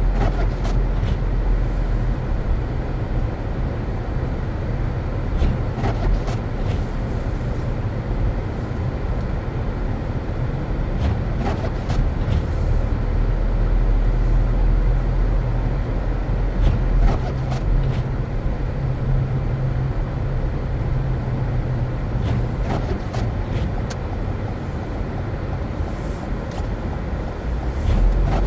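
A car driving on snow-covered roads: a steady low rumble of engine and tyre noise, with scattered light clicks and knocks.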